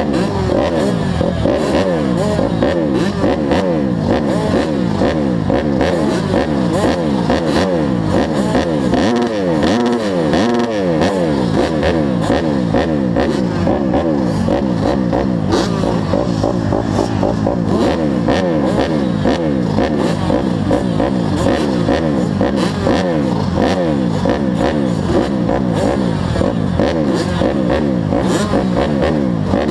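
Several mini motocross bike engines revving up and down in a race, their pitches rising and falling constantly and overlapping.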